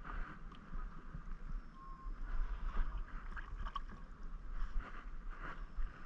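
Kayak paddling: a paddle dipping and splashing in the water, with scattered short knocks and drips against a steady low rumble.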